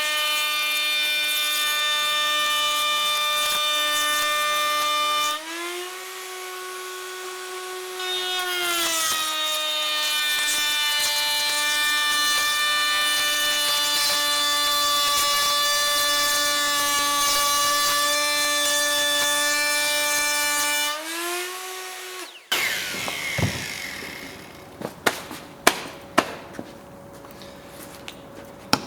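Electric router cutting a moulding profile along an MDF strip: a steady high motor whine. Its pitch rises and it gets quieter twice as the bit comes free of the cut, about five seconds in and again about three-quarters through, then drops back under load. Near the end it is switched off and winds down, followed by several sharp knocks.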